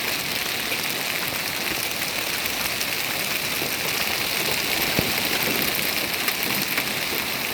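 Hailstorm with rain pelting down: a steady hiss threaded with many small sharp ticks of hailstones striking, and one louder knock about five seconds in.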